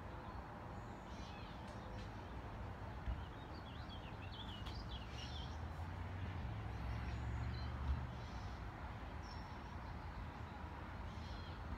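Birds chirping now and then over a steady low rumble that swells for a couple of seconds in the middle, with a short click about three seconds in and a sharper one near eight seconds.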